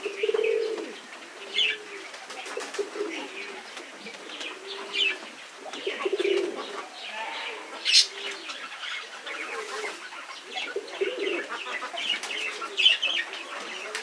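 Birds calling: a low arching cooing note repeats a little more than once a second, with shorter, higher chirps over it. One sharp click sounds about eight seconds in.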